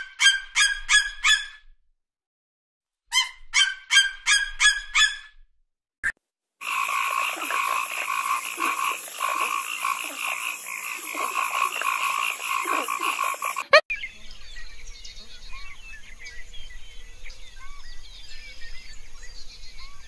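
An eagle gives two runs of quick, repeated yelping calls. From about seven seconds in, a dense chorus of croaking frogs with a steady high trill runs until it cuts off suddenly near the fourteen-second mark, leaving faint outdoor ambience with scattered soft chirps.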